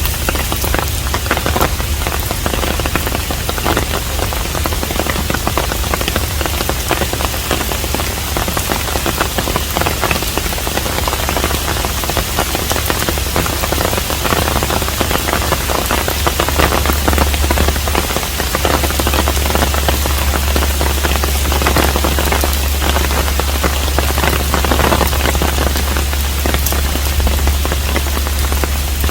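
Steady rain falling on a Korean hanok, a dense even patter of drops with a steady low hum underneath.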